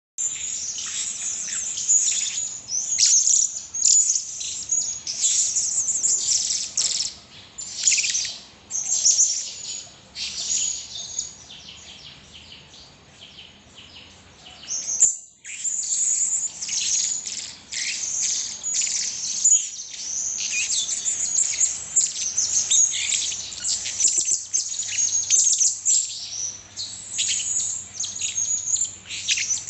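Young blue-crowned hanging parrot (serindit) chirping in rapid, high-pitched runs, a bird still learning its calls. The chirping thins out past the middle, breaks off briefly, then picks up again.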